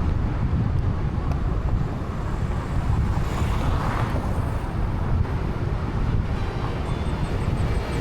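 Steady low rumble of wind buffeting the microphone outdoors, with a faint swell of higher hiss about halfway through.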